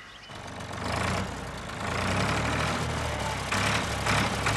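A motor vehicle engine starts up suddenly and runs steadily at idle, a little louder after the first second.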